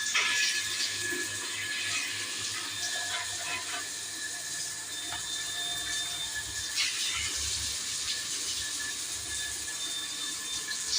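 Water running steadily from a tap, a constant rushing hiss with a thin steady whine beneath it.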